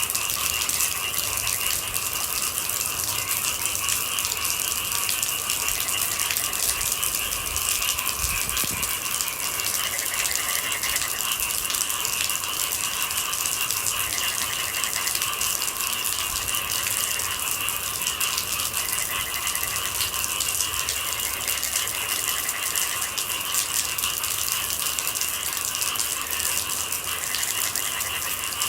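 Steady rain with a continuous high-pitched chorus of night creatures, with fainter pulsing trills coming and going.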